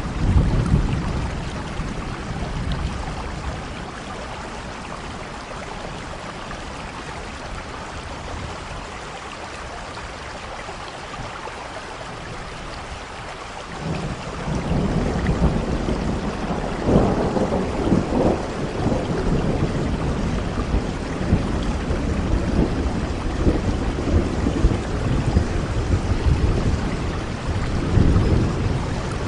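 Steady heavy rain with thunder: a rumble near the start fades to rain alone, then about halfway through a long rolling peal of thunder builds and rumbles on, swelling again near the end.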